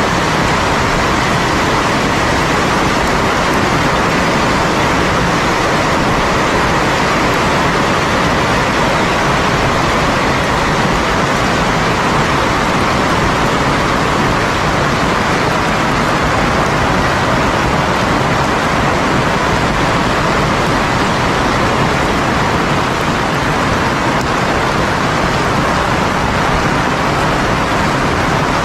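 Heavy rain falling steadily: a loud, even, unbroken hiss of downpour.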